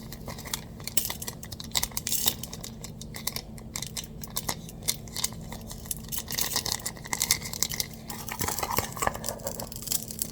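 Scattered light clinks and taps of cutlery and dishes as a meal is handled, over a steady low hum.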